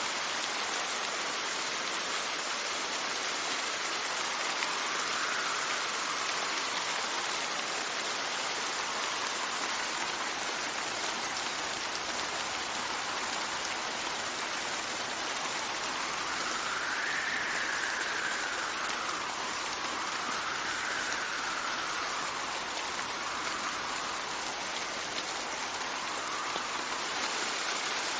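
Steady rain with a dense, even hiss, and a faint wind whine that swells and fades several times, most clearly past the middle.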